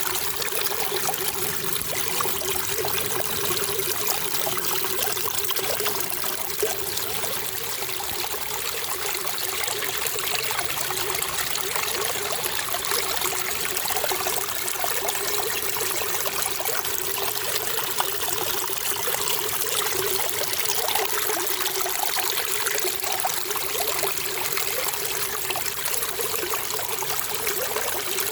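Running water trickling and splashing steadily, an even flow with no pauses or changes.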